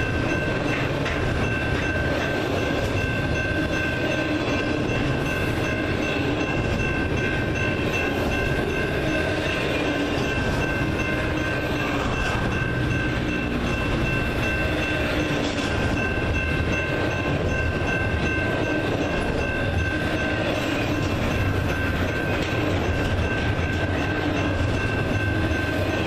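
Double-stack container train's well cars rolling past, a steady wheel-on-rail noise throughout, with two steady high-pitched tones ringing above it.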